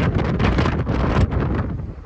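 Strong wind gusts buffeting the microphone in a rough, uneven rush that eases off toward the end.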